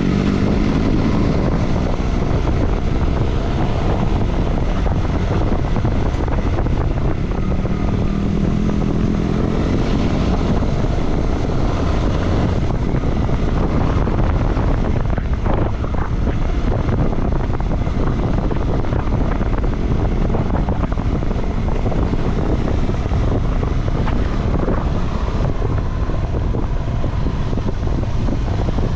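KTM 390 Adventure's single-cylinder engine running as the bike is ridden off-road, mixed with steady wind noise on the microphone.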